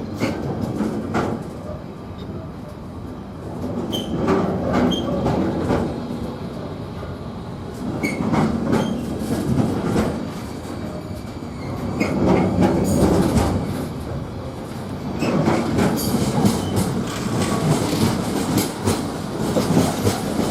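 Intermodal freight train's container wagons rolling past at low speed, wheels clicking over rail joints in an uneven series with a steady rumble that swells and eases.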